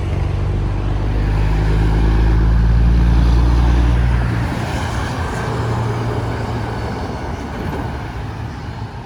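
A heavy truck passing close by on the highway, its engine drone and tyre noise building to a peak about three seconds in, then fading as it goes away.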